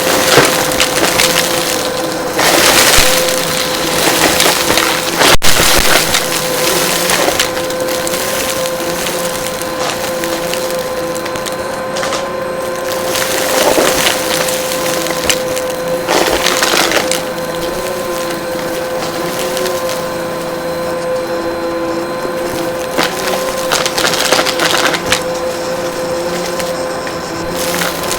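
Vacuum cleaner running with a steady motor whine while it sucks up crunchy debris, which crackles and rattles in several louder bursts.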